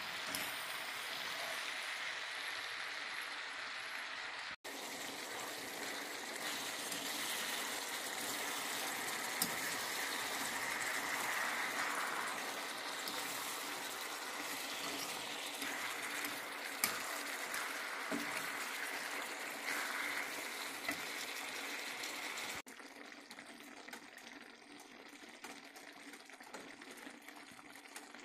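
Ground beef with chopped bell peppers and onion frying in a cast iron skillet, a steady sizzle with a few sharp clicks. It breaks off briefly about four and a half seconds in and again near the end, then carries on much quieter.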